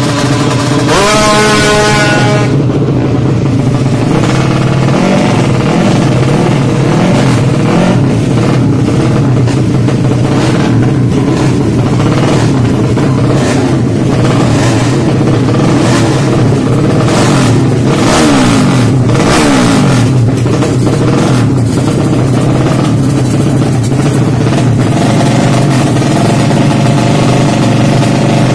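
Race-tuned Yamaha Jupiter underbone motorcycle with a 155 cc engine revving hard, loud throughout. Its pitch climbs sharply about a second in, and another sweep falls in pitch past the middle.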